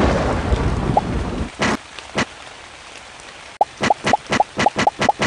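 A thunder rumble dies away into the steady hiss of rain. From about three and a half seconds in comes a quick run of short plinking drop sounds, about four to six a second.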